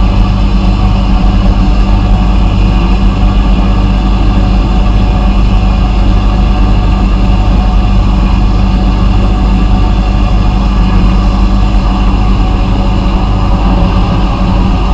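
Vapor blasting equipment running steadily: a loud, unchanging machine drone with hiss, from the pump or air compressor and the spray.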